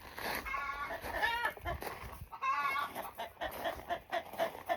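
Chickens in a hen house clucking: three drawn-out calls in the first few seconds, then a run of short, quick clucks near the end.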